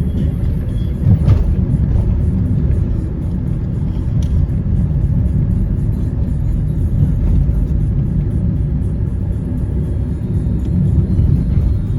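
Steady low rumble of a moving road vehicle, with a couple of faint clicks.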